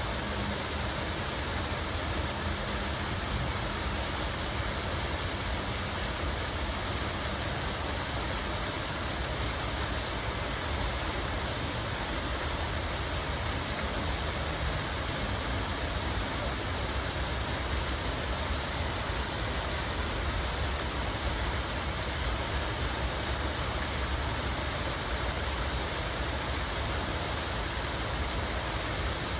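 Running water rushing steadily and evenly, with a low rumble underneath.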